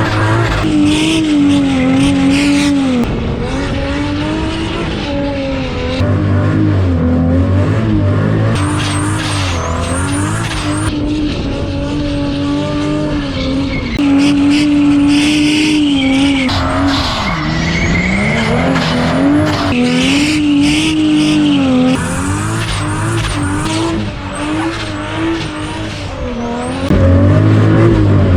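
Straight-piped turbocharged Ford Barra straight-six held at high revs during a burnout, its note wavering up and down, with tyres squealing and skidding. The sound changes abruptly every few seconds.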